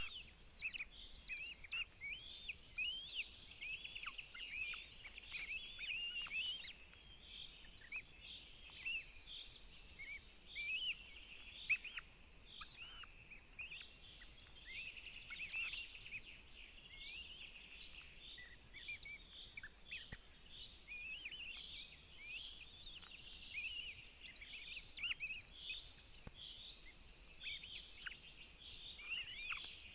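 Many birds chirping and singing at once, a steady chorus of short overlapping chirps, trills and whistles.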